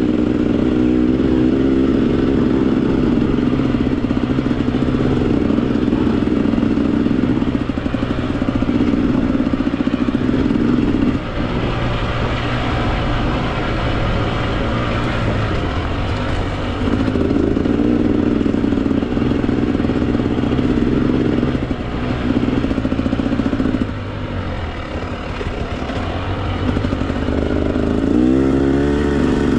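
Two-stroke Husqvarna TE 300 enduro dirt bike engine under load on a trail, the throttle held open then chopped briefly several times and revving up near the end.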